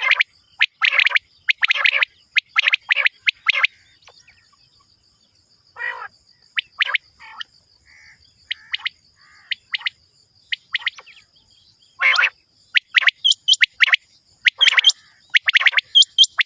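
Common quail calling: clusters of short, sharp calls repeated in quick succession, thinning out to sparse calls in the middle before picking up again near the end. A faint steady high buzz runs underneath.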